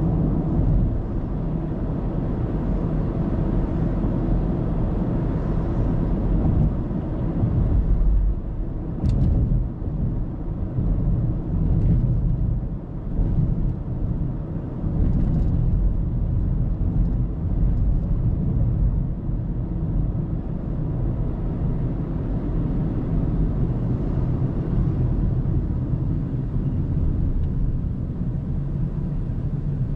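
Steady low road and engine rumble of a car driving, heard from inside the car through a dashcam, with a brief sharp click about nine seconds in.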